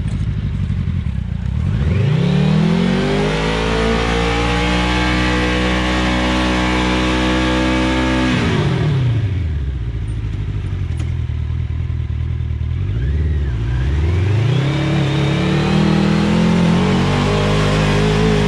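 Homemade 4WD trophy truck's engine revved hard and held at high revs, trying to drive the truck out of a mud puddle. It drops back to idle about halfway through, gives a short blip, then revs up and holds high again.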